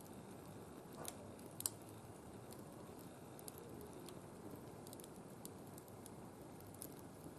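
A wood fire burning in a barbecue grill, faintly crackling, with two sharper pops about a second in and light ticks throughout.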